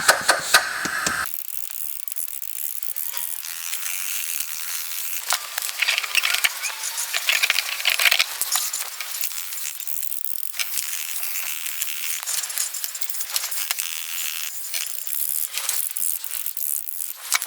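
Powder coating gun spraying powder onto the parts: a steady airy hiss, dotted with many light clicks and rattles.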